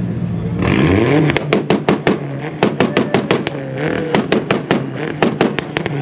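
Engine revved up from idle and held high, its exhaust cracking with a fast, irregular string of sharp pops and bangs, several a second.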